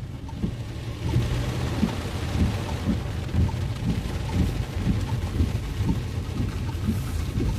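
Car driving in heavy rain: rain and road spray hiss against the car with a steady low rumble, and the hiss swells about a second in. Low pulses and faint ticks repeat about twice a second.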